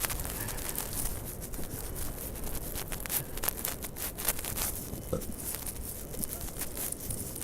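Footsteps crunching in snow, with irregular crackly crunches over a steady low rumble of wind and city noise on the microphone.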